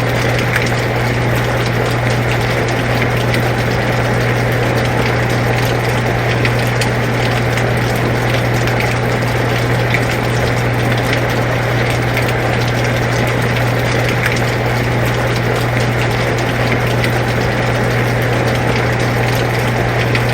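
Air conditioner running with a steady low hum, mixed with steady rain falling.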